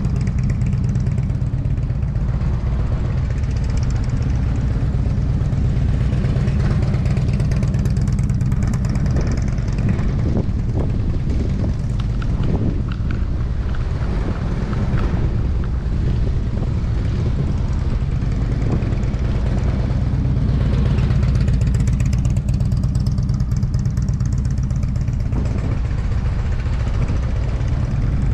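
Motorcycle engine running steadily at low revs as a deep continuous rumble, with its sound rising and falling in the middle.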